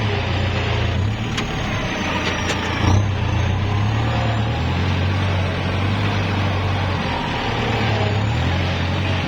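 Kubota L5018 tractor's diesel engine running steadily while plowing, its note shifting a little up and down, with a few sharp knocks between about one and a half and three seconds in.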